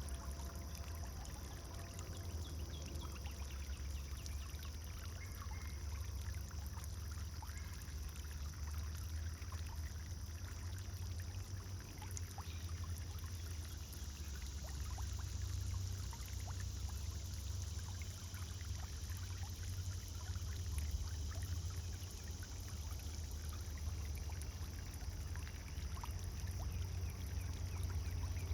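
Pond fountain's water pouring and splashing steadily, with a constant low rumble underneath.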